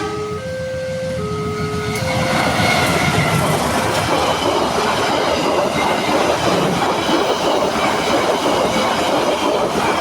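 Level-crossing warning alarm sounding two alternating electronic tones, then from about two seconds in a train passing at speed, its wheels clattering over the rail joints and mostly drowning out the alarm.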